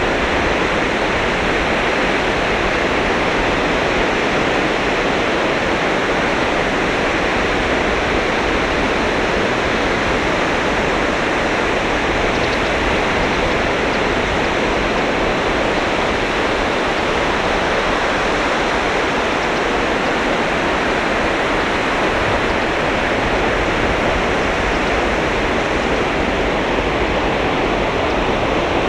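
Surf on a sandy beach: a steady roar of breaking waves, with no single crash standing out.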